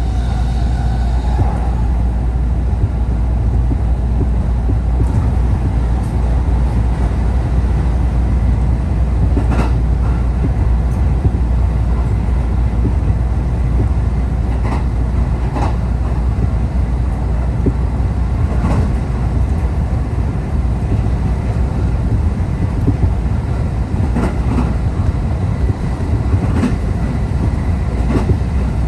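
A vehicle running with a steady low rumble, with sharp clacks at irregular intervals.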